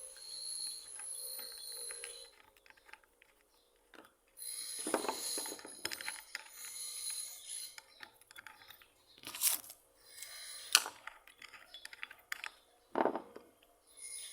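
Parts of a restored hand plane being handled and worked: irregular metallic clicks and knocks with short scraping stretches between them.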